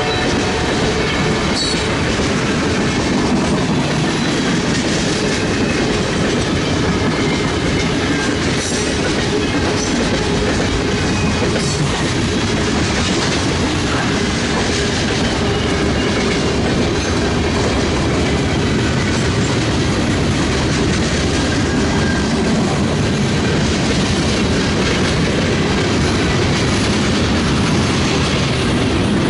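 Boxcars of a BNSF manifest freight train rolling past, a steady loud noise of steel wheels running on the rails.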